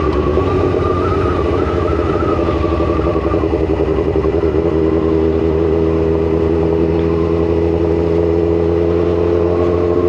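Motorcycle engine running at low revs, heard from the rider's own bike. The note pulses roughly for the first four seconds or so, then settles into a steady, even note.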